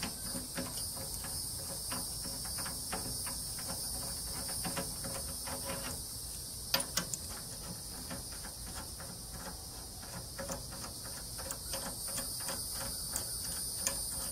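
Steady high-pitched chirring of crickets or similar insects, with scattered light clicks and knocks, a few sharper ones about seven seconds in and near the end.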